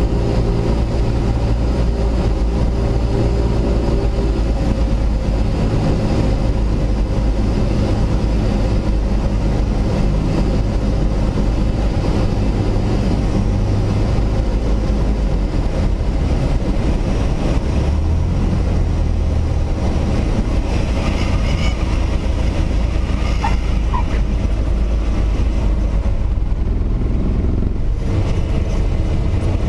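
Cessna 172S's four-cylinder Lycoming engine and propeller running steadily, heard inside the cockpit; its pitch shifts a few times as the power changes.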